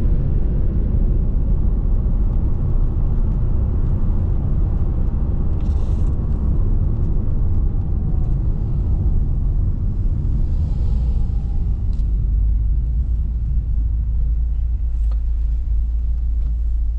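Steady low rumble of a Maserati's V8 engine and tyres, heard from inside the cabin while the car drives along with its Cambiocorsa automated manual gearbox in automatic mode.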